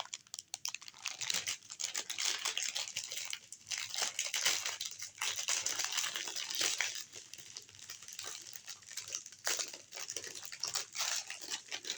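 Plastic wrapper of a packaged banana cream snack cake crinkling and rustling as it is handled and torn open, an irregular crackle that goes on, with short pauses, throughout.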